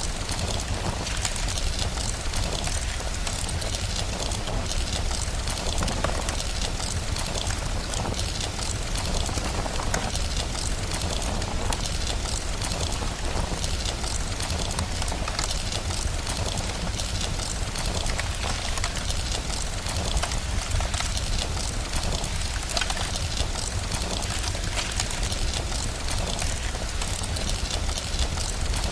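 Steady rain with a constant low rumble underneath, mixed with the crackle of a wood fire.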